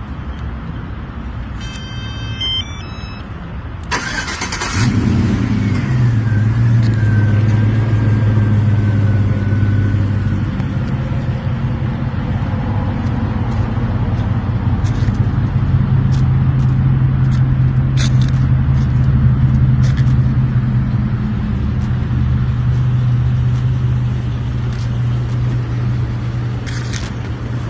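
Chevrolet Silverado's 4.8 L V8 being started: a few electronic chime tones, a short crank about four seconds in, then the engine catches, flares briefly and settles into a steady idle with a faint falling whine.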